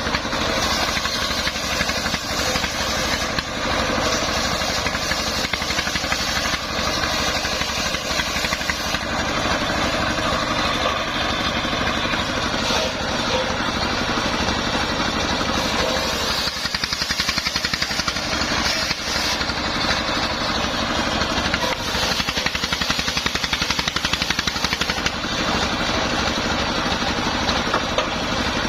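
Dongfeng 24 hp single-cylinder diesel engine running steadily with a fast throb, driving a homemade circular saw, while a high whine from the saw rises and fades as the wood is cut.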